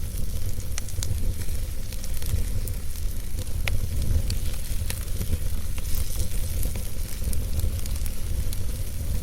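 Wood fire burning in a fireplace: irregular crackles and small pops from the logs over a steady low rumble of the flames, with one sharper pop a little over three and a half seconds in.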